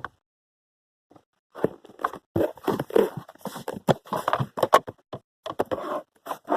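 Irregular plastic clicking, knocking and scraping as a stubborn connector is pried at and wiggled loose, starting about a second and a half in.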